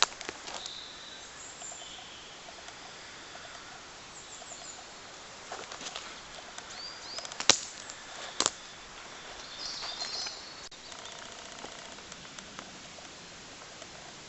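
Footsteps and rustling of someone walking through woodland, with a few sharp snaps or clicks, the loudest near the middle. Small birds chirp faintly now and then.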